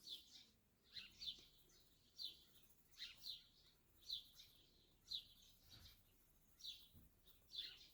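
A bird chirping over and over: short high chirps, often in pairs, about once a second.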